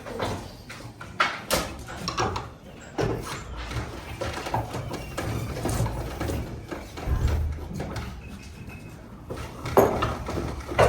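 Workshop clatter: irregular knocks and clicks over a low, steady machine hum.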